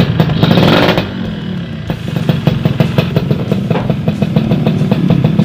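Yamaha F1ZR's two-stroke single-cylinder engine running during a tune-up, louder for the first second, then settling to a steady idle.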